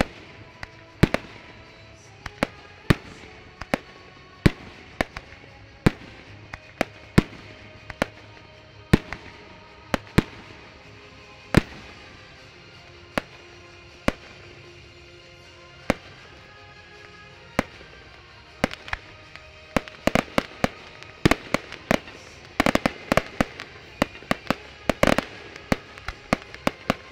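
Aerial firework shells bursting in sharp bangs, about one a second, then a rapid volley of many bangs in the last several seconds. Music plays steadily underneath.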